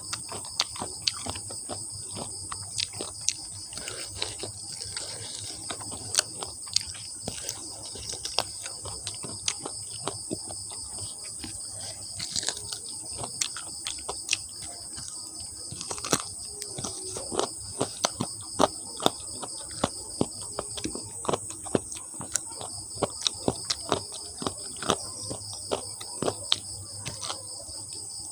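Close-miked eating of crispy batter-fried chicken feet: irregular sharp crunches and clicks of chewing and biting, some much louder than others. A steady high-pitched whine runs underneath.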